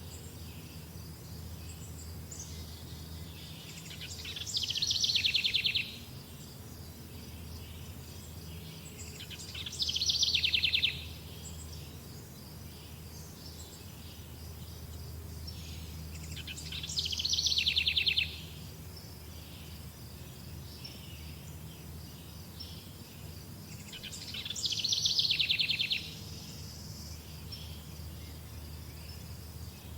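A songbird repeating a short, rapid trilled song phrase about every seven seconds, four times plus the start of a fifth near the end. Beneath it runs a faint steady insect or cricket drone.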